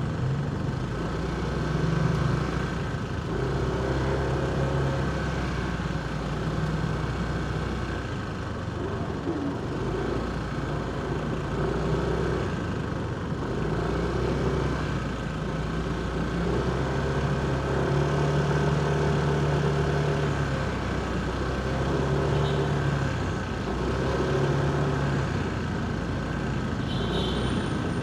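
Motorcycle engine running in heavy city traffic, with the hum of cars, buses and trucks around it; engine notes swell and fade as vehicles nearby move on and stop.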